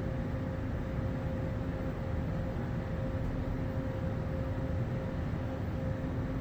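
Steady rumble inside a Doha Metro train carriage, with a constant electrical hum over it.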